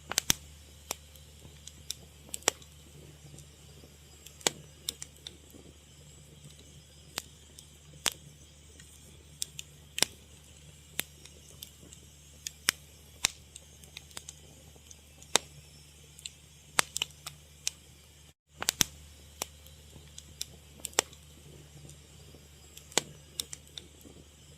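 Fire crackling: sharp, irregular pops and snaps over a low steady hum. The sound drops out for a moment about eighteen seconds in.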